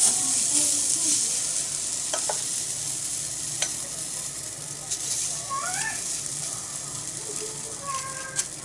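Okonomiyaki batter sizzling steadily on a thick iron griddle over a wood fire, with a few sharp crackles or ticks of spattering oil.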